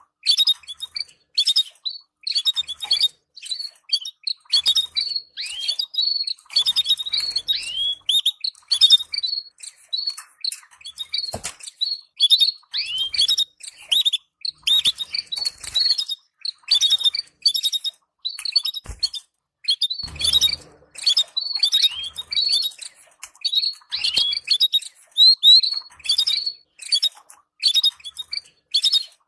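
Canary giving a rapid, continuous run of short, high chirping calls, the kind of stimulating chatter played to encourage breeding pairs. Two sharp clicks stand out about a third and two thirds of the way in.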